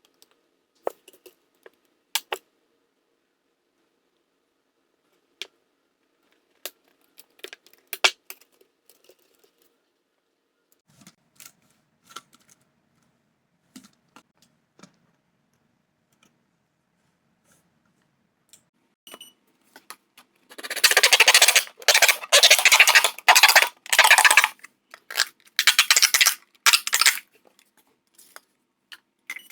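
Scattered light clicks and taps of objects being handled, then, about twenty seconds in, some six seconds of loud, rapid rattling and crackling that stops near the end.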